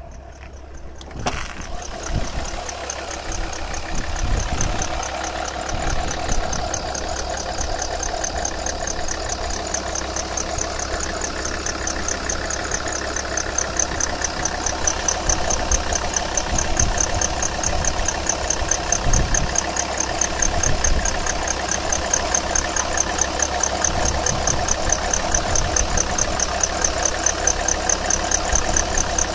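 Alfa Romeo 156 2.4 JTD five-cylinder turbodiesel running, with a fast, regular bird-like chirping over it that grows louder in the second half. The owner suspects the auxiliary belt drive, whose crankshaft pulley damper rubber is worn and almost dead.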